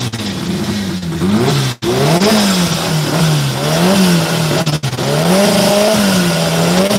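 Car engine held at high revs and revved up and down in smooth, regular sweeps, about one rise and fall every second and a half. The sound cuts out for an instant twice.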